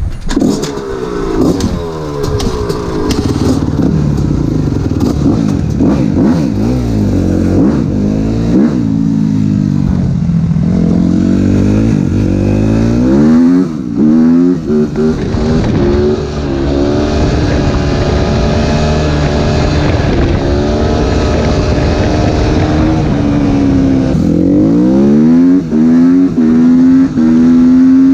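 Suzuki RM-Z250 single-cylinder four-stroke motocross engine with an open Akrapovič exhaust, running loud and revving up and down over and over. The throttle is cut briefly a few times, about halfway through and again near the end, and the engine ends on a long, high, held rev.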